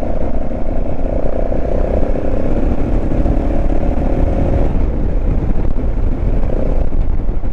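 Motorcycle engine running at road speed, heard with heavy wind rumble on the microphone; the engine note holds steady, then eases off about two-thirds of the way through.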